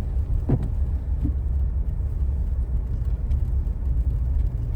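Steady low road and engine rumble heard from inside a car's cabin while driving, with a brief thump about half a second in.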